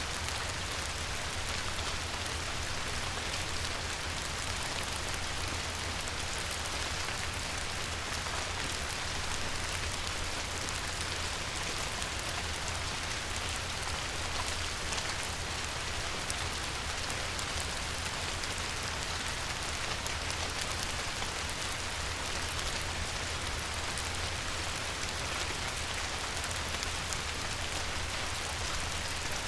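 Steady light rain falling on a river, a constant hiss made up of many small drop patters, with a steady low rumble underneath.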